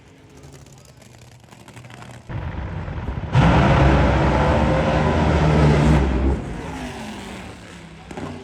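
Car engine running low, then loud from about three seconds in as it accelerates for a few seconds; its pitch then falls and it fades away.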